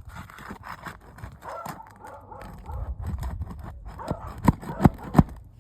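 A dog barking, with three sharp barks close together near the end.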